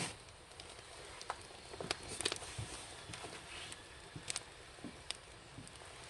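Wood fire crackling, with irregular sharp pops and snaps of burning logs, the loudest at the very start and about two seconds in.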